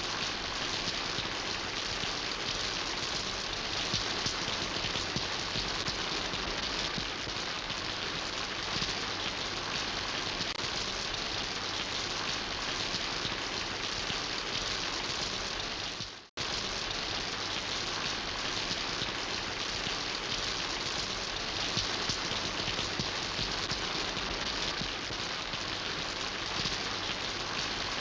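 Steady rain falling, an even hiss of many drops, cutting out for an instant about sixteen seconds in before carrying on unchanged.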